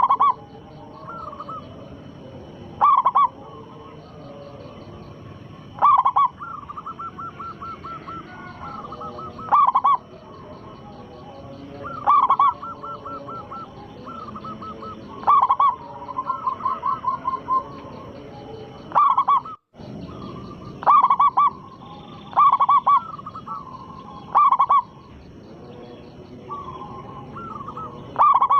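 Zebra dove (perkutut) cooing. Loud, short coos come about every three seconds, with softer rapid strings of notes between them.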